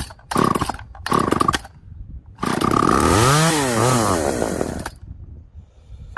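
Small vintage two-stroke chainsaw firing in three short bursts, then running for about two and a half seconds, its pitch rising and falling twice before it dies. It is starved of fuel by a gummed-up carburetor.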